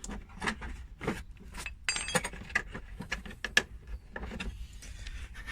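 Small metal tools and parts of a tyre plug repair kit clinking and rattling as they are handled, with a short metallic ring about two seconds in.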